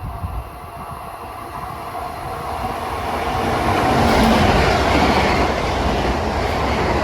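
A Long Island Rail Road train approaching and running past, its wheel-on-rail noise growing steadily louder over the first four seconds and then holding.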